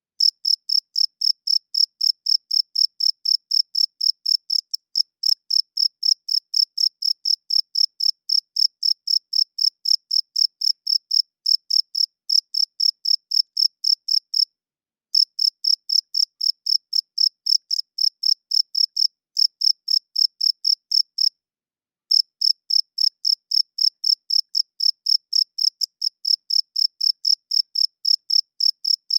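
Male cricket chirping steadily: a high, clear chirp repeated about three to four times a second in an even rhythm, its calling song made by rubbing the wings together. The chirping stops briefly twice, about halfway through and again about two-thirds of the way through.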